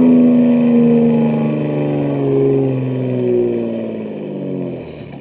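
BMW M2 G87's S58 twin-turbo straight-six exhaust, with catless downpipes, as the revs fall: the engine note glides down in pitch and grows quieter toward the end as the car slows.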